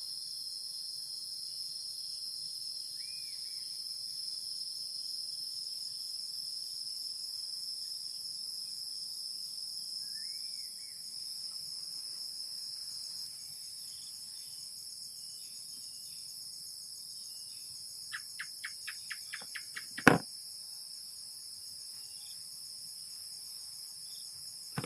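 Steady, high-pitched chorus of forest insects such as crickets and cicadas, with a couple of faint bird chirps. Near the end a quick run of about eight clicks is followed by a single sharp knock, the loudest sound.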